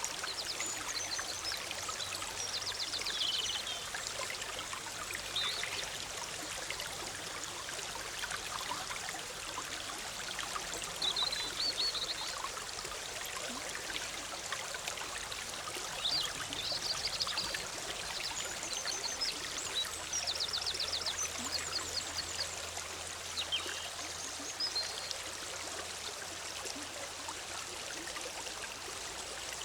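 Forest stream bubbling steadily, with small birds giving short high chirping phrases now and then above the water.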